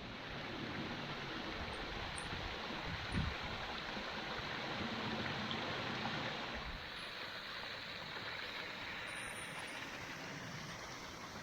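Steady rush of a moorland beck tumbling over rocks and small waterfalls, with a single dull bump about three seconds in.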